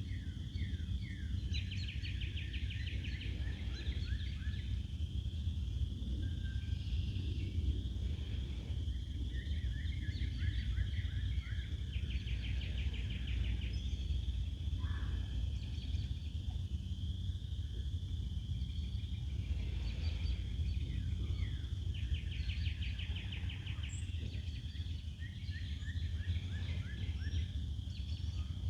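Songbirds singing outdoors: one bird repeats a song of short slurred notes ending in a rapid trill about every ten seconds, with other chirps around it. Under it runs a steady low rumble.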